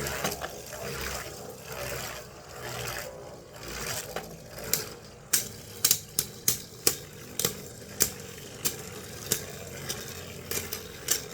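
Plastic-series Beybladges spinning and scraping in a stadium, then a string of sharp plastic clacks from about five seconds in, one or two a second at uneven spacing, as the tops collide.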